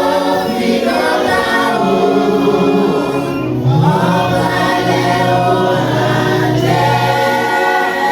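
A church congregation singing a gospel chorus together, several voices holding long notes in phrases, with a sustained low note underneath from about halfway through.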